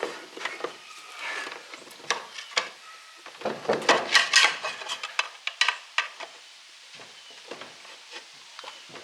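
Metal scraping and clinking as hand tools work at a motor's end cover and its seized bearing. There are scattered sharp clicks, with a louder, denser run of scraping about four seconds in.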